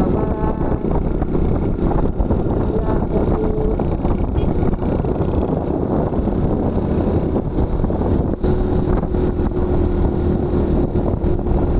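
Motorcycle running steadily while riding, with wind buffeting the microphone.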